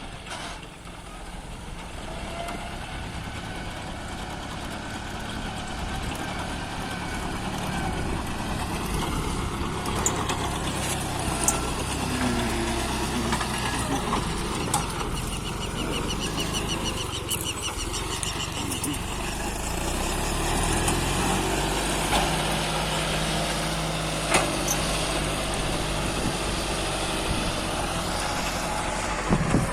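Tractor engine running steadily, getting louder over the first several seconds, with a few sharp knocks and clatters.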